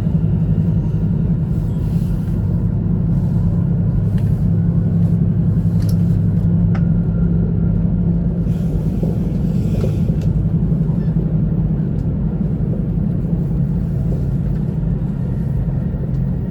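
E2-series Shinkansen train running, heard from inside the passenger cabin as a steady low rumble with a few faint clicks.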